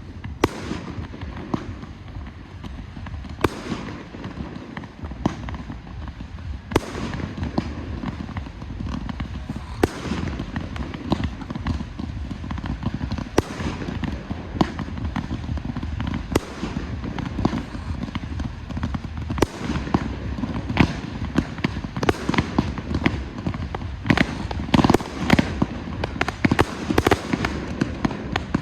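Fireworks display: a steady run of sharp bangs from shells bursting, over continuous crackle, with the bangs coming thicker and faster over the last few seconds.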